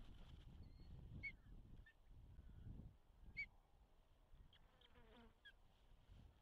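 Faint, short high bird chirps, a few single calls spaced a second or two apart, over a low wind rumble on the microphone that fades after about three seconds.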